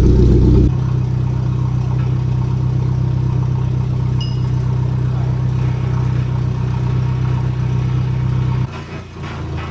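Forklift engine running steadily at idle, a little louder for the first moment, then dropping off suddenly near the end.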